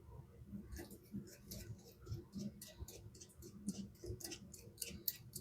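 Faint, irregular light clicking and ticking, about three or four clicks a second, as small metal parts of a 1940 Vibroplex telegraph key and the tools on them are handled during disassembly.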